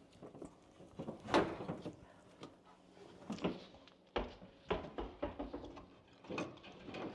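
Electrical cable being pulled back out through a hole in drywall and a plastic old-work box: irregular scraping, rustling and light knocks as it drags through, one louder knock about four seconds in.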